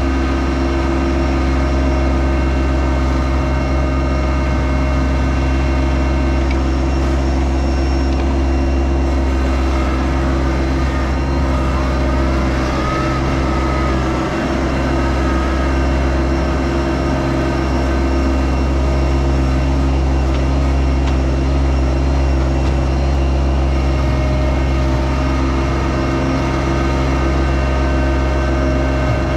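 Yanmar SA324 compact tractor's diesel engine running steadily at an even speed.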